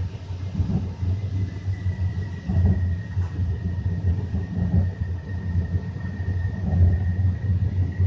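Inside an O-Train Confederation Line light-rail car running between stations: a low rumble of wheels on track that swells and dips, with a faint steady high whine throughout.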